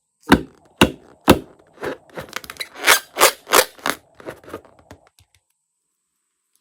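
Slime being handled, giving about a dozen crisp pops and clicks over four seconds before going quiet.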